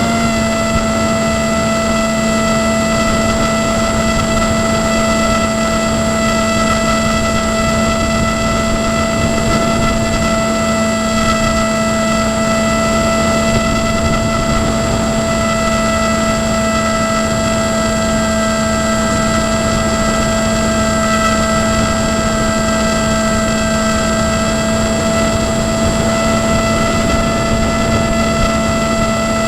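Drone motors and propellers buzzing: a steady, unchanging whine of several tones.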